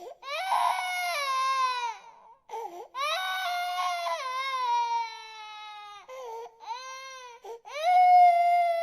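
Infant crying: long wailing cries that fall in pitch, broken by short gasps for breath, about four cries in all.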